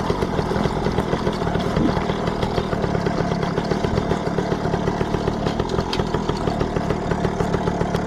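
Yamaha PW80 dirt bike's small single-cylinder two-stroke engine running at a steady, even pace.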